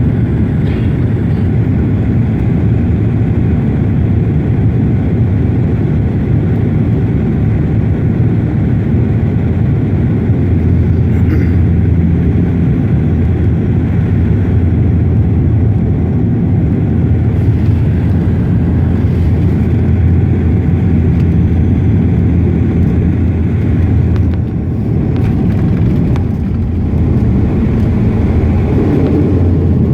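Airliner cabin noise during landing: a loud, steady low rumble of the engines and rushing air, dipping briefly about 25 seconds in.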